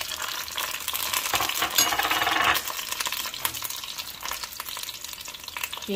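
Dried chiles, garlic, onion and tomato pieces sizzling in a little oil in a frying pan, with many small clicks and scrapes as the pieces are moved about. The sizzle flares up briefly about two seconds in.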